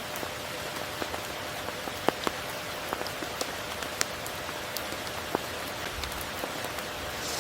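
Steady tropical rain falling as an even hiss, with scattered single drops landing close by as sharp ticks, a few of them standing out about two, four and five seconds in.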